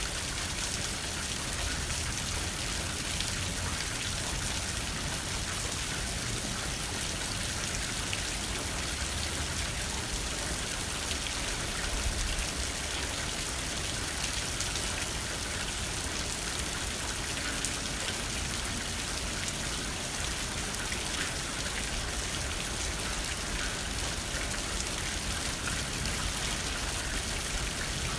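Steady rain pattering on a window pane, a dense even hiss of drops, with a low rumble of wind underneath.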